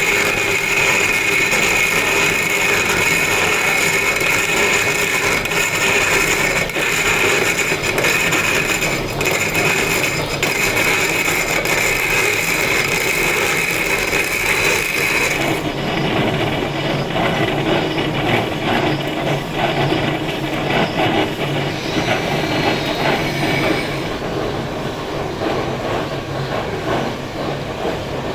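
Power tool working stone: a steady high whine for about the first half, which cuts off about halfway, followed by a rougher rumbling, grinding scrape.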